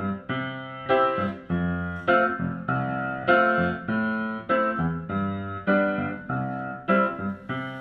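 Instrumental music: piano-like keyboard chords struck about every two-thirds of a second, each fading before the next.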